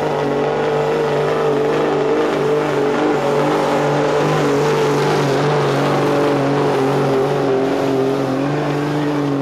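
1999 Dodge pickup's Cummins diesel pulling a weight sled, held at high revs in a steady, loud drone, its pitch sagging slightly in the last few seconds as the load builds.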